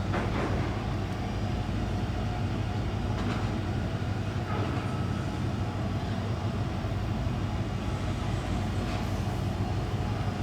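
Steady low drone of a car ferry's diesel engines running, with a strong even hum, heard through the window glass of the terminal building.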